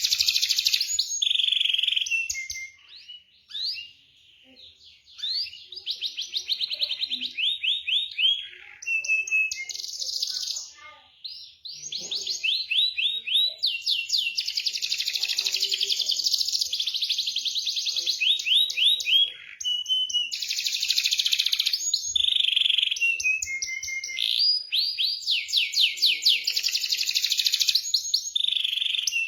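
Domestic canary singing a fast song of rapidly repeated high notes and rolling trills, broken by a few short pauses. It is a lure song ('pancingan'), played to coax a canary that has stopped singing into song.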